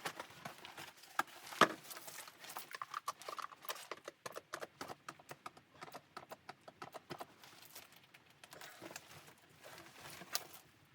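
A quick, irregular series of sharp knocks and clicks, with one louder knock about one and a half seconds in.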